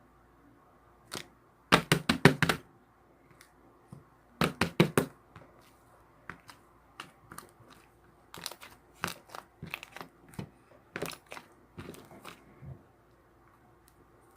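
Sharp taps and clicks from something being handled at close range. Two quick runs of closely spaced clicks come about 2 and 5 seconds in, followed by scattered single taps.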